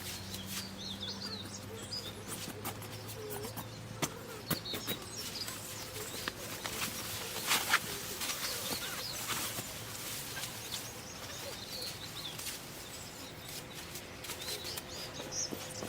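Small birds chirping and calling, with scattered clicks and knocks; the loudest is a pair of sharp knocks about halfway through. A low hum fades out over the first few seconds.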